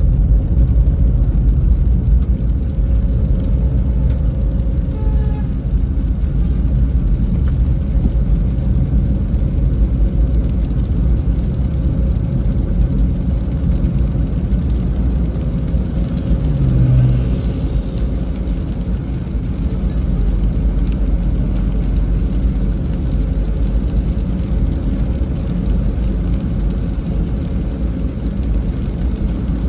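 A car driving on a rain-wet road: a steady low rumble of tyres and engine, with a brief swell about two-thirds of the way through.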